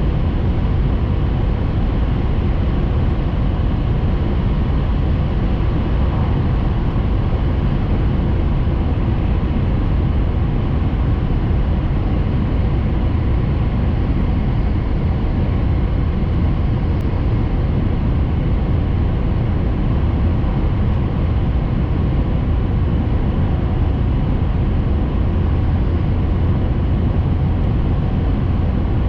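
Steady running noise of a Tohoku Shinkansen Hayabusa train at speed, heard inside the passenger cabin: a constant low rumble with a faint hum.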